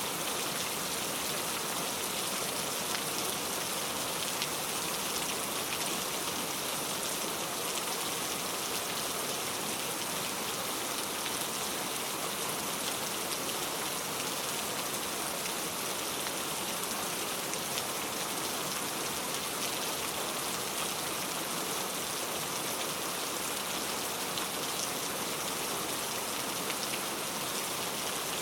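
Steady rain falling, an even hiss of drops with fine scattered patters.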